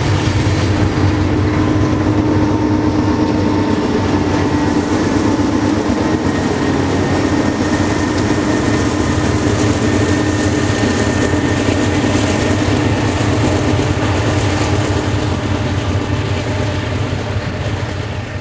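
A BNSF freight train passing at close range: covered hopper cars rolling by with the clickety-clack of wheels over the rails, then two diesel locomotives at the train's rear go by. The sound starts to fade near the end as the train pulls away.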